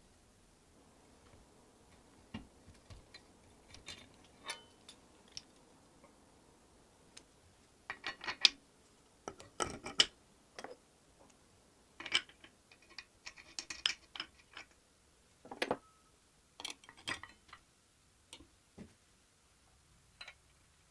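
Irregular clicks and metallic clinks of small metal parts and hand tools being handled on a workbench: a few light ticks at first, then a run of louder clinks from about eight seconds in until a little past the middle.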